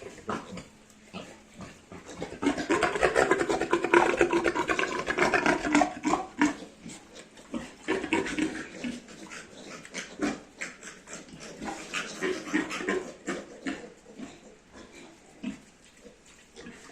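Piglet grunting and squealing: a loud run of rapid, pulsing grunts from about two to six seconds in, then shorter grunts scattered through the rest.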